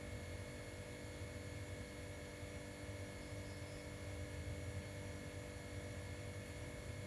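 Steady low hum with a faint hiss, unchanging, with no distinct sounds standing out.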